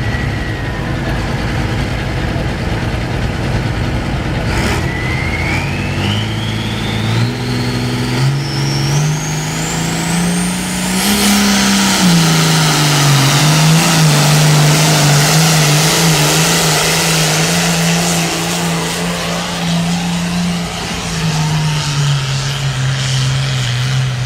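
Allis-Chalmers pulling tractor's engine revving up under load during a pull. The engine note climbs in steps over several seconds while a whistle rises steeply in pitch. It then holds at high revs under loud rushing noise and sags briefly near the end.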